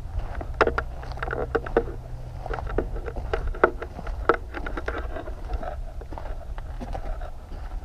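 A string of irregular knocks and clinks, a few sharper than the rest, over a steady low rumble.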